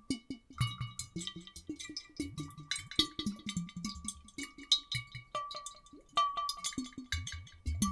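Layered water sounds made with bottles: water sloshing and glugging inside glass bottles, giving a dense run of small bubbly clicks and hollow low plops that shift in pitch, with a steady high tone underneath.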